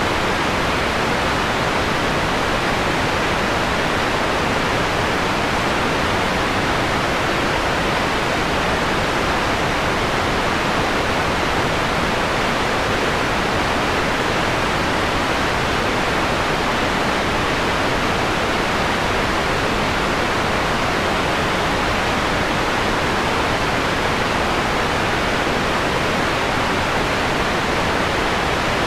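Steady, even hiss of generated white noise with its top end softened, so it sounds mellow rather than bright. It holds at a constant level with no changes or other events.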